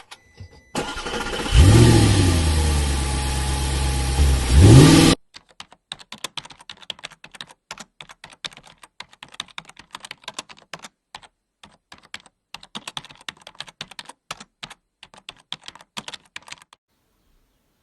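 A car engine revs up, runs briefly, revs again and cuts off abruptly. It is followed by a long run of quick, irregular clicks like typing on a keyboard.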